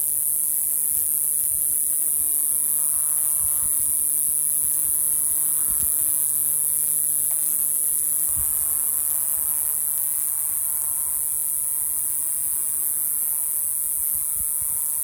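Male cicada calling to attract females: a continuous high-pitched buzz held at a steady level.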